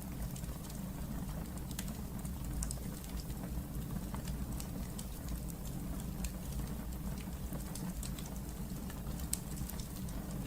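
Wood fire burning in a fireplace: a steady low rumble with many small irregular crackles and pops throughout.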